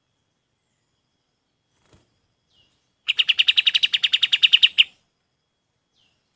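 A kapas tembak songbird gives one rapid, loud trill of about ten evenly repeated notes a second, lasting nearly two seconds and starting about three seconds in. Faint short chirps come before and after it.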